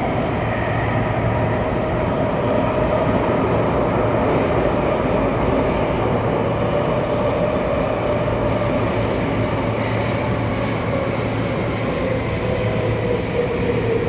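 Saitama Railway 2000 series train running through a subway tunnel, heard from inside the car: a steady rumble of wheels and running gear with a hum under it, and a tone that falls slightly in pitch near the end.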